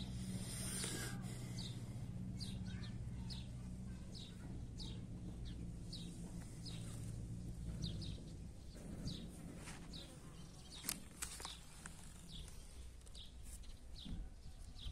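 A small bird chirping steadily, one short high falling chirp a little more than once a second, over a low steady mechanical hum that stops about eight seconds in.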